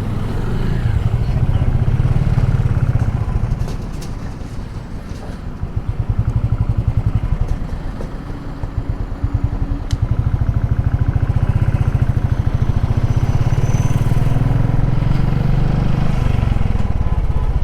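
Motorcycle engine running under way, its low firing pulse pulling steadily. It eases off twice, about four seconds and eight seconds in, then pulls on evenly again.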